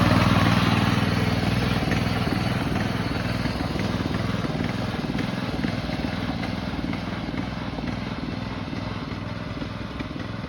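Racing lawn mower's engine running at speed, loudest at the start and fading steadily as the mower moves away.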